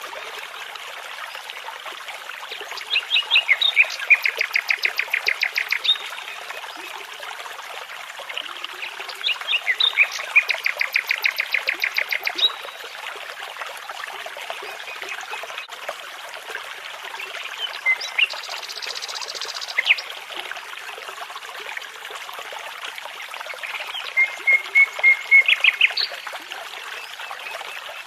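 A songbird singing three phrases of fast repeated notes, about 3, 10 and 24 seconds in, with a few single calls between them. Under the song a brook runs with a steady babble.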